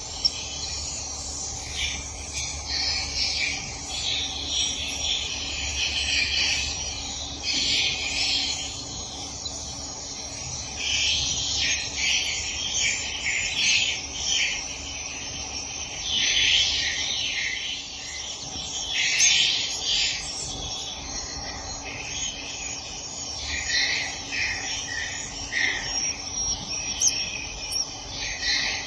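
Swiftlets twittering: dense, high chirps in irregular bursts, over a faint steady low hum.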